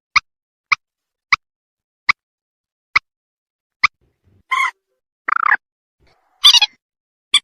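Common moorhen calling: a string of short, sharp single notes at irregular intervals, then three longer, harsher calls in the last few seconds. This is a bird-catching lure call, with clean silence between the calls.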